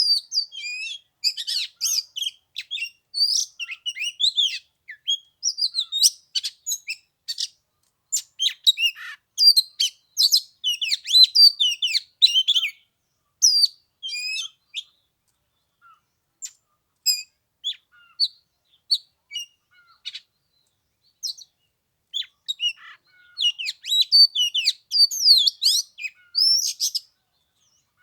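Oriental magpie-robin singing a varied, rapid song of clear whistles and chirps. The song thins to scattered notes about halfway through, then comes back loud and full near the end.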